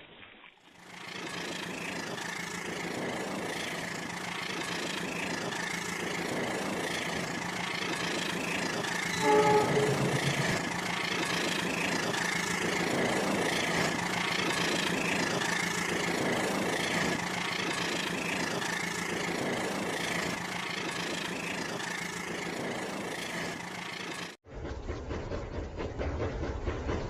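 Toy train running on its track with a steady motor hum and clatter. About nine seconds in, a short pitched horn sound plays.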